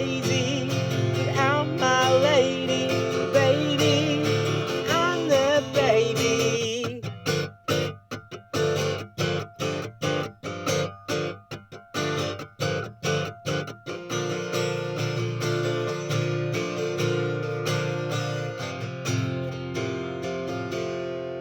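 Acoustic guitar strumming at the close of a song, with wordless singing over it for the first six seconds or so. Then come short, choppy strums with gaps between them, about two a second, and from about halfway the chords ring on and fade out.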